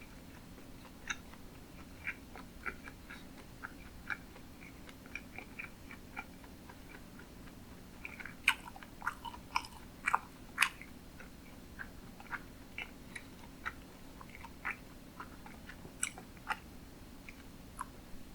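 Close-miked mouth sounds of a person chewing sushi: a steady run of small wet clicks and smacks, loudest and most frequent about eight to eleven seconds in.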